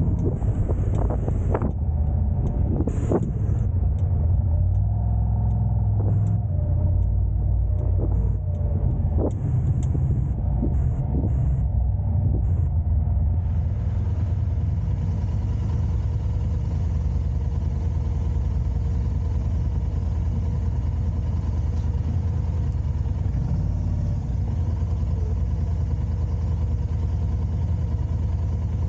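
Car driving, a steady low rumble of engine and road noise, with scattered sharp knocks over the first dozen or so seconds before it settles into an even drone.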